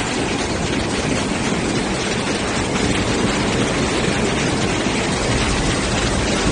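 Loud, steady rush of water from the cloudburst flooding, an even noise with no breaks.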